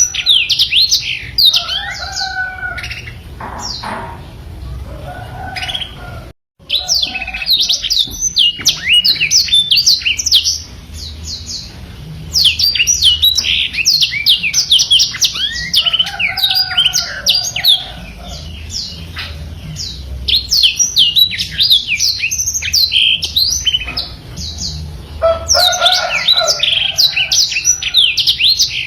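Black-throated canary (blackthroat) singing long, fast rolling phrases of high chirps and trills, broken by short quieter pauses. There is a brief gap of silence about six seconds in.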